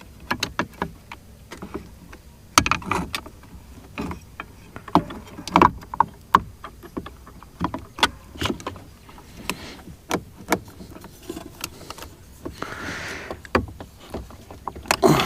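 Irregular clicks and knocks of plastic and metal parts being handled and pressed together as a Mercury outboard remote control is reassembled by hand, with a short rustle a little before the end.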